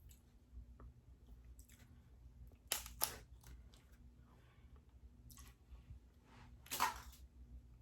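Close-miked eating of king crab legs: two sharp snaps about three seconds in and a longer, louder crackle near the end, with quieter handling sounds between.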